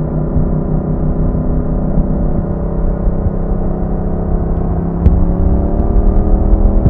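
Yamaha MT-07's parallel-twin engine running at a steady cruise with wind rumble. About five seconds in there is a click, and the engine pulls louder, its pitch rising as the bike accelerates.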